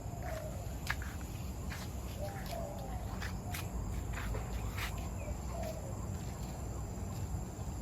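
Bird park ambience: scattered short bird chirps and clicks over a steady low rumble, with a thin steady high insect-like tone and faint distant wavering calls.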